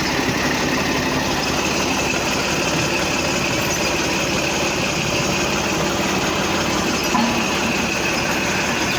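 A motor running steadily at an even pace, with a fast, fine pulse and no change in speed.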